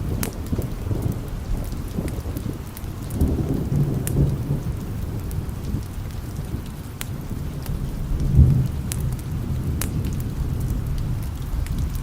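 Steady rain with low rolling thunder, which swells about three seconds in and again in a short, louder peak near the end. Scattered sharp ticks and pops sound over the rain throughout.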